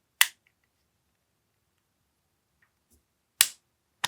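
AAP-01 gas blowback airsoft pistol firing on a gassed magazine: three sharp shots, one just after the start, another about three seconds later and a third right at the end.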